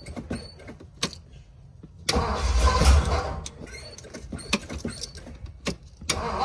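Supercharged 1957 Ford Thunderbird's 312 V8 being started: a few light clicks, then about two seconds in the engine turns over and comes in loudly. It settles lower, then rises again near the end.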